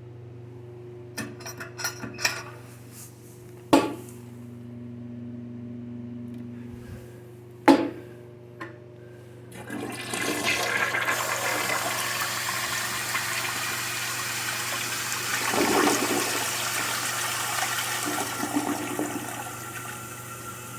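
A few clicks and two sharp knocks, then, about ten seconds in, a Mansfield Alto toilet flushes: water rushes steadily through the bowl, swelling briefly before easing off toward the end.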